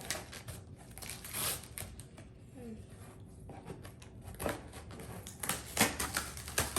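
Cardboard box and packaging being opened and handled: scattered clicks, scrapes and rustles.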